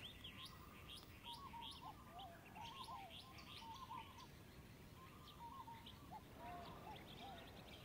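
Faint birdsong: quick high chirps over a repeated lower warbling phrase.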